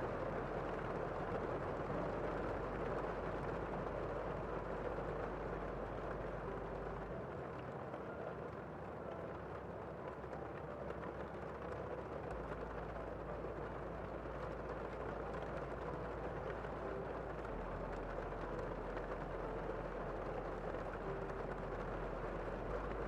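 Steady rain falling outside a window, heard from inside a room as an even, unbroken hiss.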